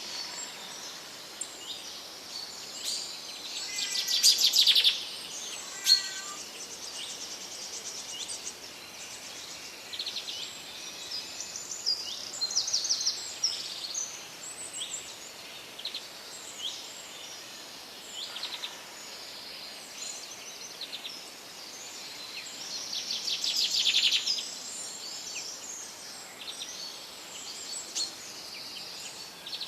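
Several birds chirping and calling, with two louder rapid trills that swell and stop, about four seconds in and near the end, and a single sharp click about six seconds in.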